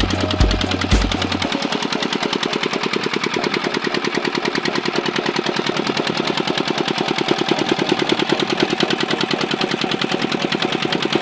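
Diesel engine driving a water pump, running steadily with rapid, even firing knocks. A music bass beat plays over it for the first second and a half.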